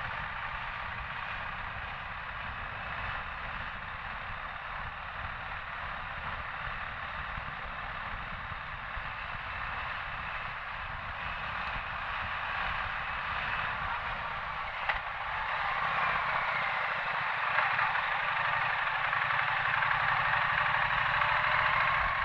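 Motorcycle on the move: steady engine and wind noise while riding, growing louder for the last several seconds.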